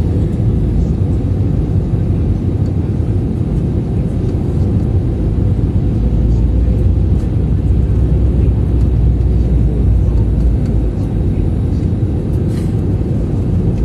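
Airbus A320 cabin noise on the landing approach: a steady low rumble of engines and airflow with a constant hum, the low rumble swelling for a few seconds in the middle.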